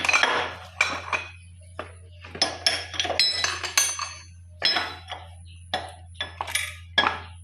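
Metal hand tools clinking and clanking: a wrench being set on and worked around the cylinder head nuts of a ZS1115 diesel engine, in a series of irregular sharp clinks with brief metallic ringing, over a steady low hum.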